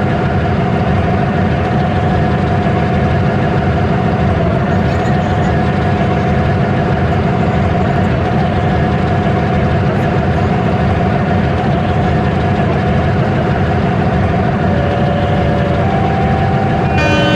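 Train engine running with a steady low rumble and hum. A horn starts sounding near the end.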